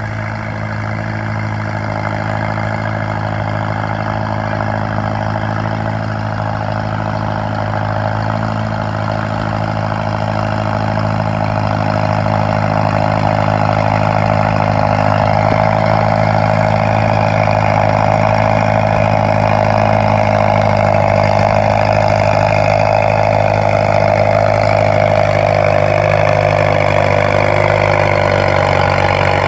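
Farmall M tractor engine running steadily, growing a little louder about twelve seconds in.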